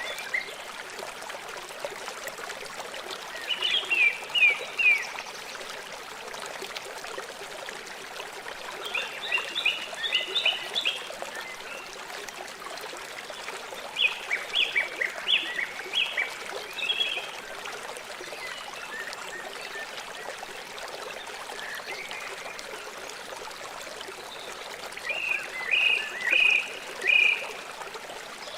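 River water running steadily. Over it, four times, a small animal gives short runs of quick high chirps, several notes each.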